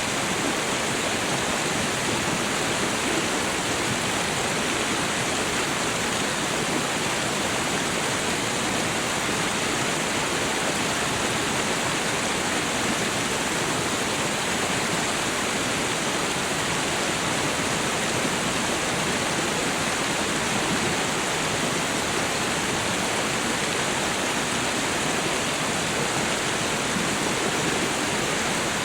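Waterfall: water falling and rushing in a steady, unbroken roar with no change in level.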